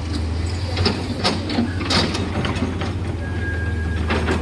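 Heavy diesel machinery running with a steady low engine hum, broken by about half a dozen irregular metallic clanks and knocks.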